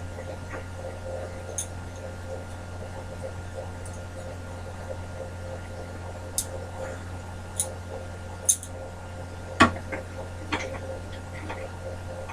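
A few short clicks and knocks of tools and metal parts being handled at a bandsaw setup, the loudest about nine and a half seconds in, over a steady low hum.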